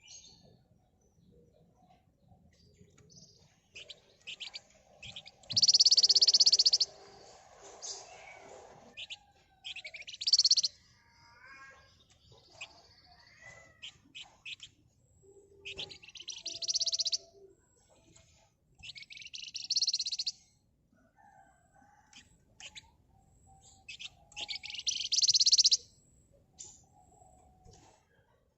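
Flamboyan (Javan fulvetta) song: five loud, dense, high buzzing trills of about a second each, with scattered short chirps and calls between them.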